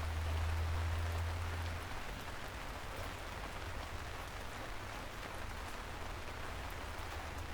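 Steady rain falling on a surface, an even hiss with scattered drop ticks. A low rumble underneath fades out about two seconds in.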